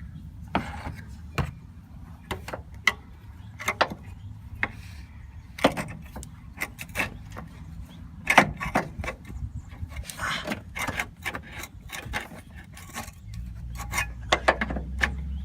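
Irregular metal clinks and knocks of a front engine torque mount and its bolt being fitted back into place by hand, with the loudest knock about eight seconds in, over a low steady hum.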